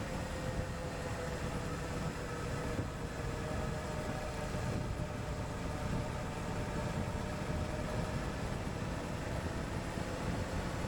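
Suzuki V-Strom 1050XT's V-twin engine running at a steady cruise, its note drifting only a little, under a steady rush of wind and road noise.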